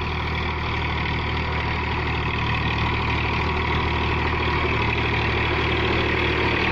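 Massey Ferguson tractor engine running steadily, getting slightly louder.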